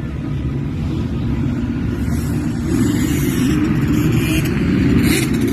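Motocross dirt bike engines running, a steady rumble that grows louder about two seconds in.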